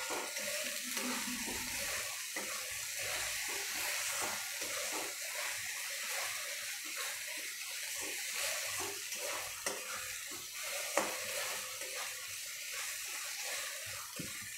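Poppy-seed and mustard spice paste frying in mustard oil in a wok, a steady sizzle, with a metal spatula repeatedly scraping and stirring it against the pan and one light knock about eleven seconds in.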